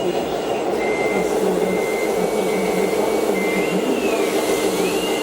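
Radio-controlled scale Liebherr 576 wheel loader working, its electric motors whining steadily. The whine steps and glides up and down in pitch as the machine moves.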